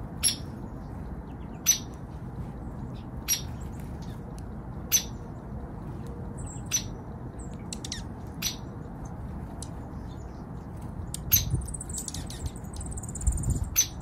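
Songbirds at a winter ground feeder: sharp single chip notes, about one every one and a half to two seconds, with a brief high twittering near the end, over a steady low background rumble.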